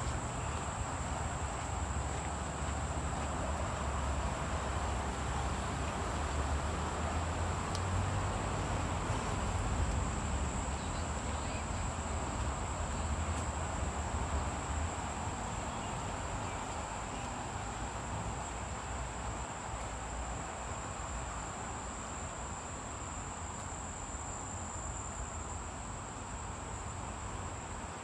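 Insects, crickets or cicadas, droning on one steady high pitch without a break, over a constant outdoor hiss. A low rumble underneath fades out about halfway through.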